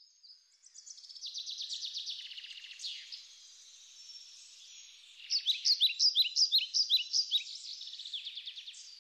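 Songbirds singing: a fast chirping trill, then from about five seconds in louder quick repeated chirps.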